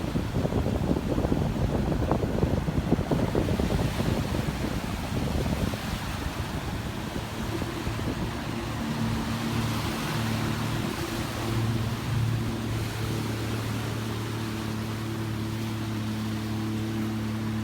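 Surf with wind buffeting the microphone, the loudest part. About halfway through, a steady engine hum at constant speed takes over.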